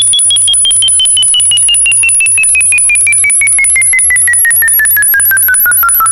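Synthesized electronic frequency track. A rapid, even train of pulses, about ten a second, carries a tone that glides steadily downward. Above it sits a thin steady very high tone, and short low tones step about underneath.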